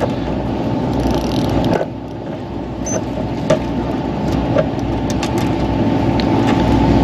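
Fishing boat's engine running steadily with a low rumble, with a few light clicks from about three seconds in.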